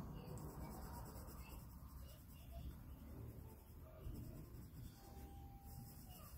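Faint scratching of a pencil or crayon colouring on paper, over a low room hum.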